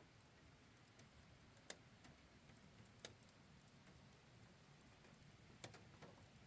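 Near silence with a faint steady hush, broken by three faint sharp clicks spaced a second or more apart.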